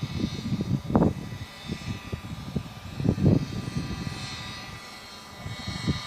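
A gas RC helicopter's 23cc Zenoah two-stroke engine and rotor running in flight, a steady high drone, under heavy wind buffeting on the microphone that comes in irregular low rumbling gusts.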